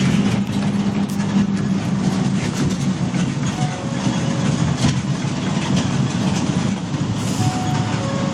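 A fire truck's heavy diesel engine running steadily with a low hum.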